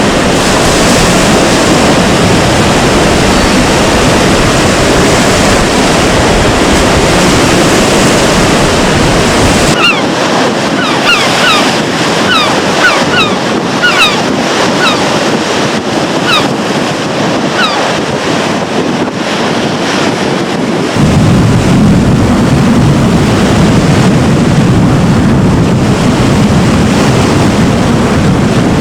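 Stormy sea surf and strong wind, a loud, steady rush with wind buffeting the microphone. Between about ten and seventeen seconds in, gulls give a run of short, falling calls over it.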